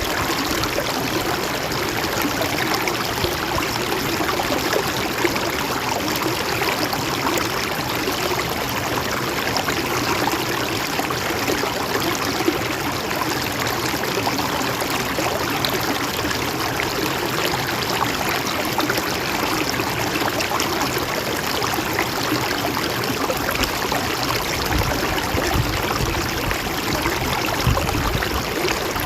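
Mountain stream running steadily, an even rush of water with trickling. A low rumble joins in for a few seconds near the end.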